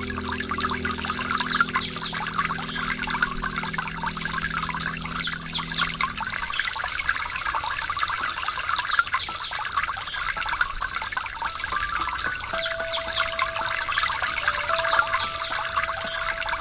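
Waterfall rushing steadily. Soft sustained music notes fade out about a third of the way in, and a quiet held note comes back near the end.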